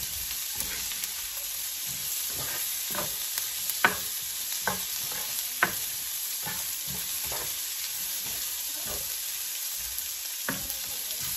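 Onions, garlic and ginger sizzling steadily in pork fat and coconut oil in a cast-iron skillet, stirred with a spatula that scrapes and knocks against the pan, with two sharper knocks near the middle.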